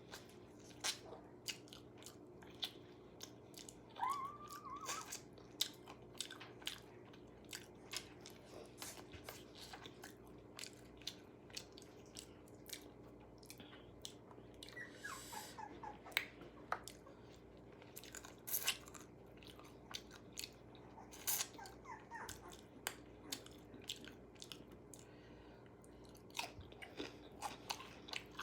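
Close-up chewing and biting of crispy KFC fried food, with many sharp crackles and crunches. A short high squeak that bends in pitch is heard three times: about 4 seconds in, around the middle, and about 21 seconds in.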